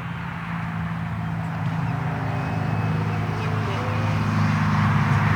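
Large electric RC Waco biplane's motor and propeller running under power, a steady low hum with airy rush that grows louder as the plane comes closer.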